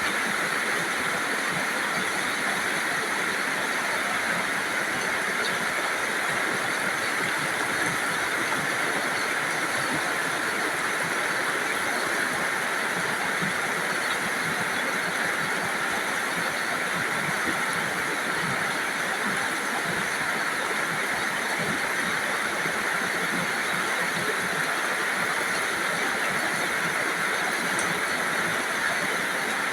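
Steady rainfall, an even unbroken hiss with no single drops or gusts standing out.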